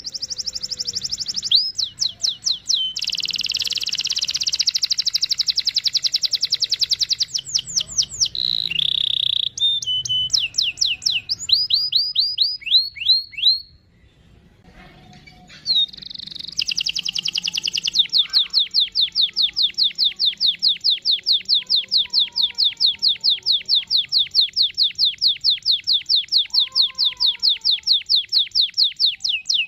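Domestic canary singing long, rapid rolling trills of high repeated notes, with a pause of about two seconds midway.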